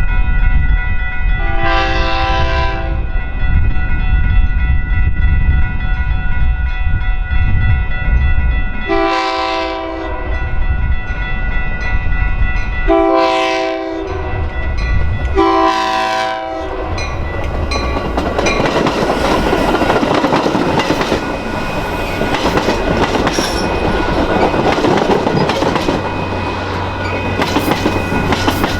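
Metra commuter train sounding its horn four times, the first blast the longest, in a long-long-short-long style crossing pattern, over the low rumble of the approaching train. After the fourth blast the train goes by with loud, steady wheel-and-rail clatter.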